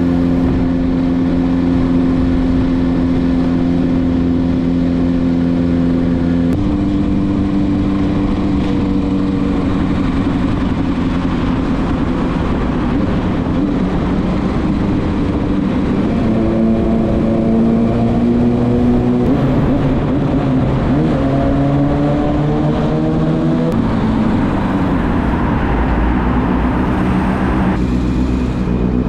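Kawasaki ZX-6R inline-four engine running through a LeoVince SBK titanium muffler while riding. It holds a steady note at first, drops in pitch about six seconds in, then climbs in pitch twice in the middle as the bike accelerates, each climb cutting off at a gear change.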